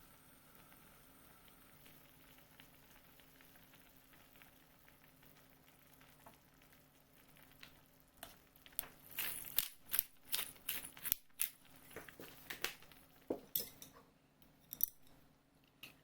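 Faint steady room hum, then from about halfway in a quick, irregular run of sharp clicks and crinkling, like something being handled, cut or unwrapped during kitchen work.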